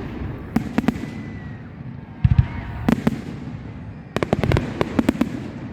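Fireworks bursting: clusters of sharp bangs and crackles, with a deep thud about two seconds in and a dense volley of cracks about four seconds in.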